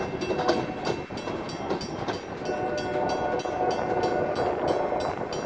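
Tail end of a freight train of loaded covered hopper cars rolling away over a grade crossing, the wheels rumbling on the rails. A crossing bell rings steadily over it, about three strikes a second. A faint steady tone sounds through the middle.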